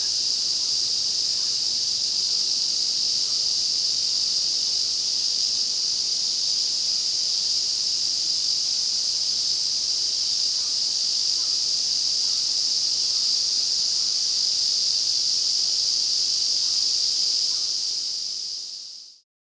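Dense chorus of Ezo-cicadas (Lyristes japonicus), a steady high-pitched buzzing drone that fades out near the end.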